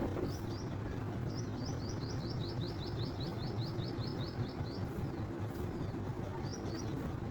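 A small bird chirping: a couple of high notes, then a quick run of about eighteen chirps at roughly five a second, and a few more near the end, over steady low background noise.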